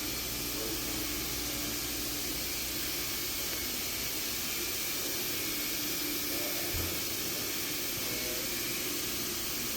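Rottler cylinder-head milling machine running with a steady hiss, with a faint steady hum underneath. A single low thump comes about seven seconds in.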